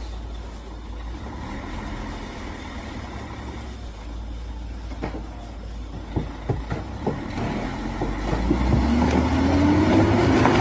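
Heavy truck engine running under load, with a few sharp knocks about five to seven seconds in, then revving up, rising in pitch and getting louder near the end.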